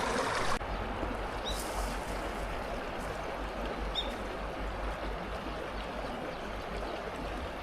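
Steady rush of running water from a partly frozen waterfall, with a low rumble under it. Two faint, short high chirps come about a second and a half in and again about four seconds in.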